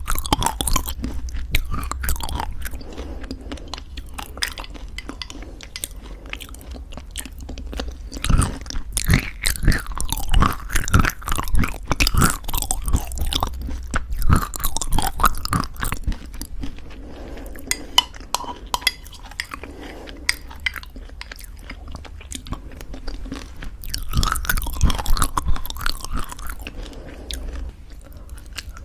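Close-miked chewing of crunchy homemade granola in thick yogurt: crisp crunching bites mixed with softer, wetter chewing, louder in two spells, about a third of the way in and again near the end.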